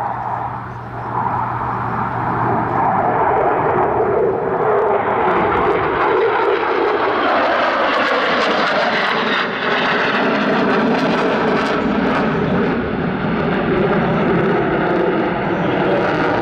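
Boeing F/A-18 Super Hornet's twin General Electric F414 turbofans roaring during a display flight, swelling a few seconds in and staying loud, with a tone that falls in pitch about halfway through.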